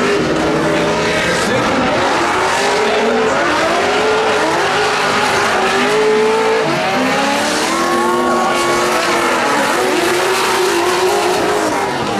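Drift cars running at full throttle: their engines rev up and down again and again, over continuous tyre squeal.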